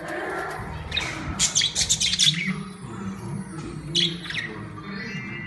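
Budgerigars chirping and squawking, with a dense flurry of sharp high calls from about one to two and a half seconds in and a couple more calls near four seconds.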